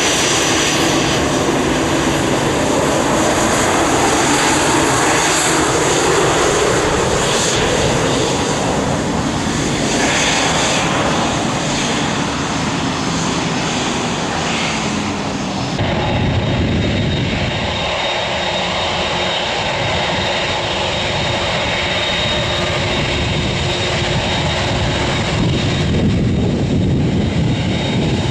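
Airliner engines running loud and steady, with slowly gliding tones in the first half. About halfway through the sound changes abruptly to a different aircraft's engine noise.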